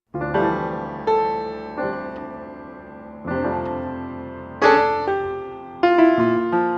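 Background piano music: slow chords and single notes struck one after another, each fading before the next, starting just after silence.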